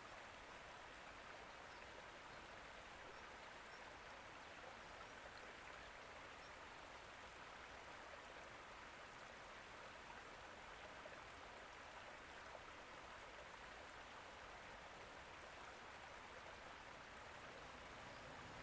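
Faint, steady rush of running water, unchanging throughout.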